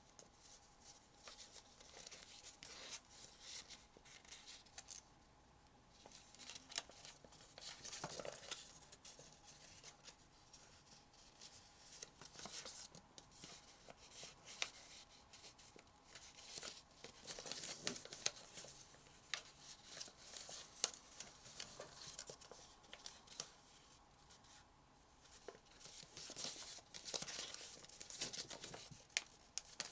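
Sheet of origami paper being folded and creased by hand: faint, on-and-off crinkling and rustling with small sharp crackles as the folds are pressed in, busiest about a third of the way through, a little past halfway and near the end.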